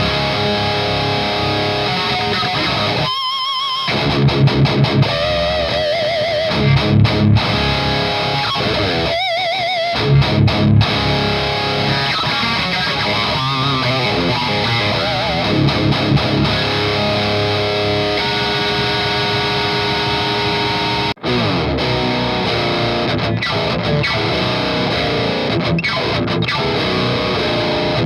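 Electric guitar played through a Noise Pollution Pedals PMDM high-gain distortion pedal: a heavily distorted metal tone with sustained riffing. The playing stops briefly twice, each time followed by a few short, loud, low chugs.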